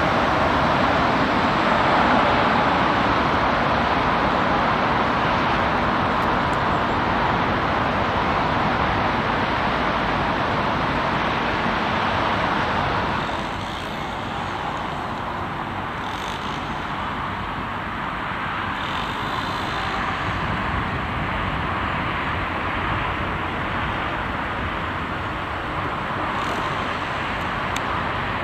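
Särkänniemi Tornado roller coaster train running empty on its steel track during a test run, a steady rushing rumble that drops in level about halfway through.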